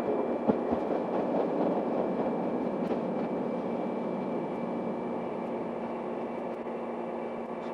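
Diesel railcar's running noise heard from inside the car, a steady rumble with a low hum and a faint high whine, easing slightly as the train slows into a station. A couple of sharp clicks come about half a second in.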